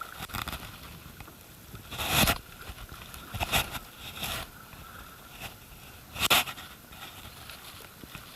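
Kayak paddle strokes in river water: four short splashing strokes at uneven spacing, the loudest about two and six seconds in, over a low steady wash of water.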